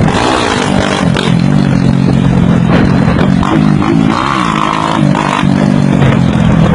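Motorcycle engine running loudly, with a few short revs.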